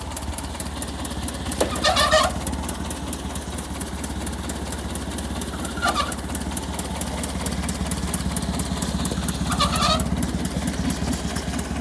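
Tractor engine idling steadily. A chicken calls three times over it: about two seconds in, about six seconds in, and near ten seconds.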